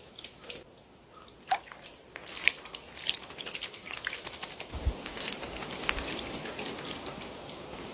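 Birds splashing in bathing water: irregular small splashes and drips that come thicker and faster about two seconds in.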